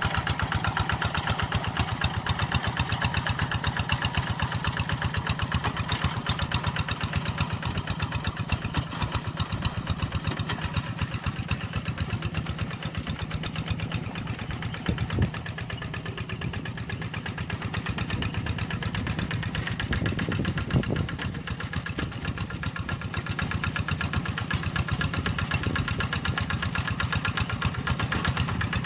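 Tractor engine running steadily with a rapid, even beat, with a couple of brief knocks partway through.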